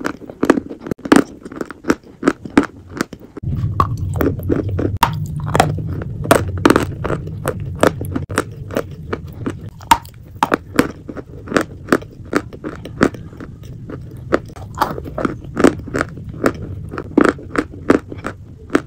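Close-miked eating: a rapid, uneven run of sharp crunchy bites and chewing clicks, two or three a second. A low steady hum joins about three seconds in.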